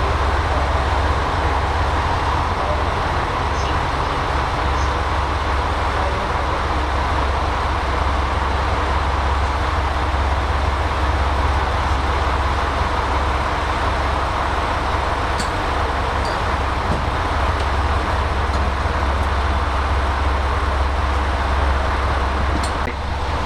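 Steady engine drone and running rumble of a KiHa 185 series diesel railcar, heard from on board, with a strong low hum underneath.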